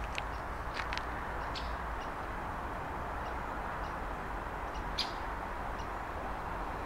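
Scattered short bird chirps over a steady background hiss, the clearest chirp about five seconds in.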